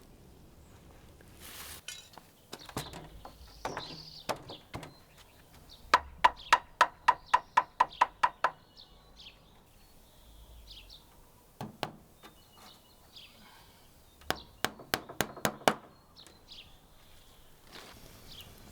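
Knife chopping on a wooden cutting board in two quick runs of about five strokes a second, with a few single knocks between them.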